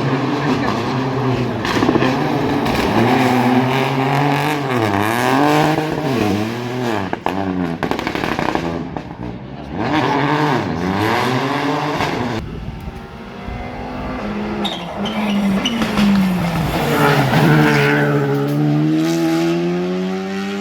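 Rally car engine revving hard, its pitch climbing and dropping again and again as the driver shifts gear and brakes for corners. In the second half, one long pull rises steadily in pitch.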